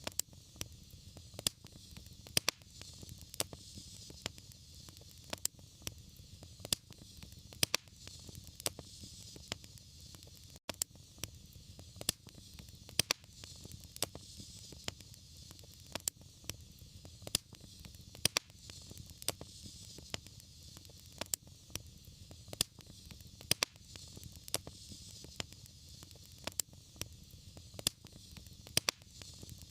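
Fire burning in a fireplace: steady crackling with a few sharp pops every second over a low, even rushing hiss.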